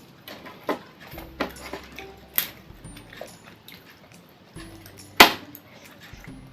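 Close-miked eating: crunching and chewing crisp deep-fried catfish, with a few sharp crunches, the loudest about five seconds in.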